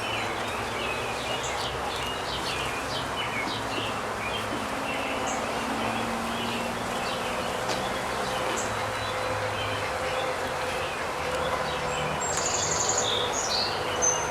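Honeybees buzzing around an open hive, a steady hum, with songbirds chirping over it and a brighter burst of birdsong near the end.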